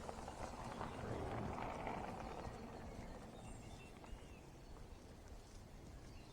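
Reeds and grass rustling against a person pushing through them on foot, with footsteps. The rustling fades after about three seconds, and a bird chirps faintly near the middle.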